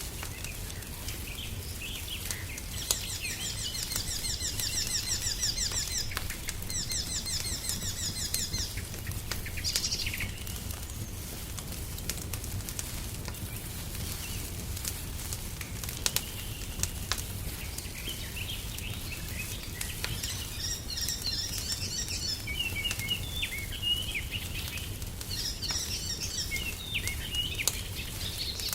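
Songbirds singing: two fast trilled phrases about three to eight seconds in, then bursts of chirping later. Under them, a wood fire crackles with scattered sharp pops over a steady low rumble.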